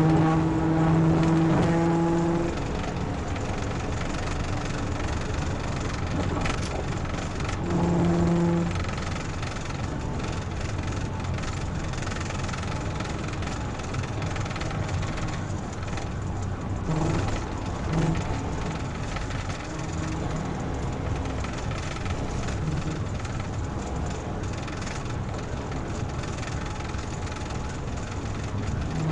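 Car driving at speed, engine and road noise running steadily. A low, steady horn blast sounds for the first couple of seconds and another sounds briefly about eight seconds in.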